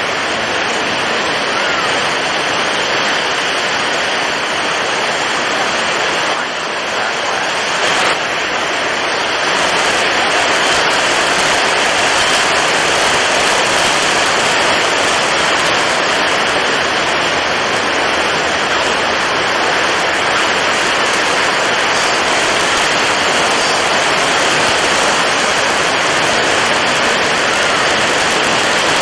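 Storm at sea: strong wind and heavy waves making a dense, steady rushing noise, a little louder and hissier from about ten seconds in.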